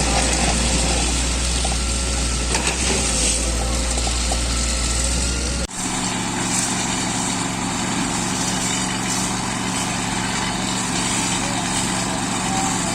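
Engines running steadily, with a continuous hum and noise. About six seconds in, the sound cuts abruptly to a different steady engine hum with a low drone.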